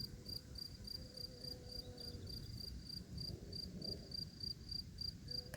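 A cricket chirping steadily: short high-pitched pulses at about four a second, with a low rumble underneath.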